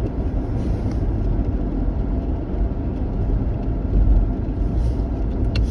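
Steady low rumble inside a moving truck's cabin: engine and road noise. A couple of short clicks come near the end.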